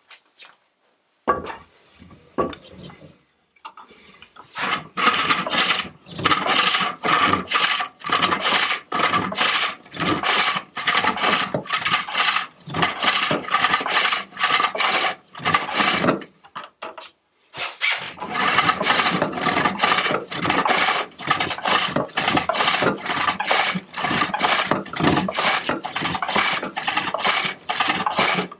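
Hook tool cutting a walnut bowl on a foot-powered pole lathe: a rhythmic scraping cut about twice a second, one burst on each downstroke of the treadle as the work spins toward the tool, with a gap on each return stroke. A few scattered knocks come first, and the cutting stops briefly about two thirds of the way through before picking up again.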